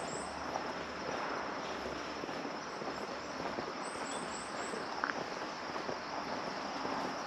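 Outdoor ambience: a steady wash of background noise, with a small bird giving a quick run of four short high chirps right at the start and again about four seconds in.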